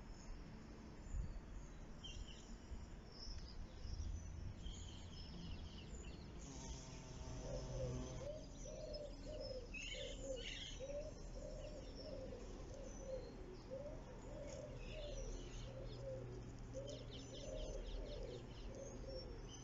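Outdoor birdsong: small birds chirping in short high calls, and from about a third of the way in a bird's low cooing call repeated steadily about twice a second.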